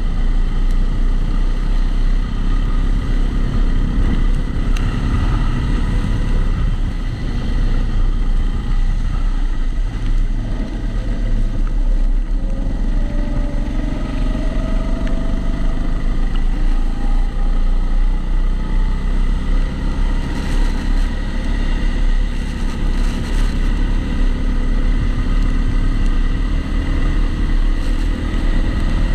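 Kombikart Eco rental kart engine heard onboard through a lap, its pitch rising and falling with the throttle. It is muffled by the camera's waterproof housing, with a steady extra tone over it that the uploader puts down to the housing.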